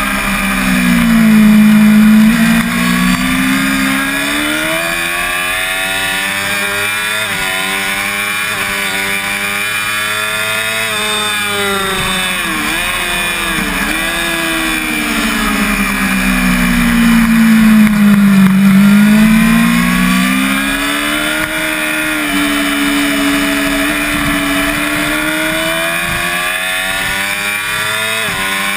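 Onboard sound of a 5EB Yamaha YZF-R6 600cc inline-four at race pace, the engine note swooping down and back up twice as the revs sag and recover through corners, loudest where the revs are lowest about two seconds in and around eighteen seconds. Quick dips in pitch between twelve and fourteen seconds mark gear changes, with wind rushing over the microphone throughout.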